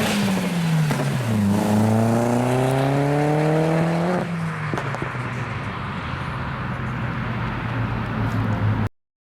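Performance car engine revs falling back, then climbing steadily under acceleration through a gear for about two and a half seconds before the throttle lifts and it settles to a steady lower drone with a few faint pops. The sound cuts off abruptly near the end.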